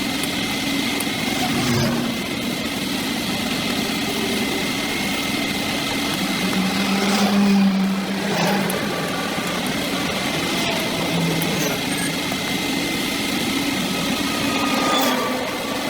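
A small engine running steadily at high revs.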